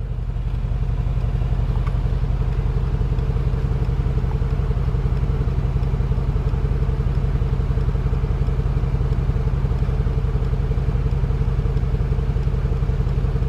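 The 2020 Mercedes-Benz G63 AMG's twin-turbo V8 idling steadily.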